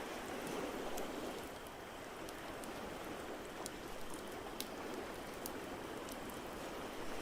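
Steady wash of ocean waves with scattered small sharp pops from a crackling fireplace.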